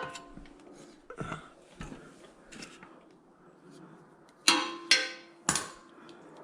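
Metal hand tools clinking and clanking against metal parts. A few light ticks come first, then three loud ringing clanks in quick succession about four and a half seconds in.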